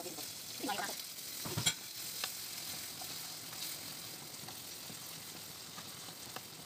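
Onions and shrimp sizzling in oil in a non-stick wok while being stirred with a wooden spoon. A couple of sharp knocks come about one and a half to two seconds in.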